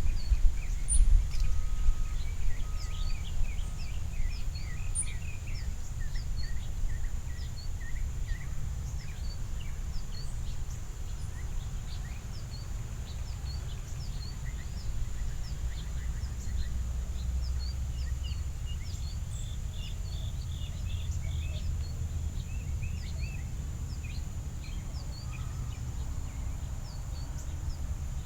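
Field recording of backyard songbirds chirping: many short, overlapping chirps throughout, with a short run of four lower repeated notes in the first few seconds, over a steady low rumble.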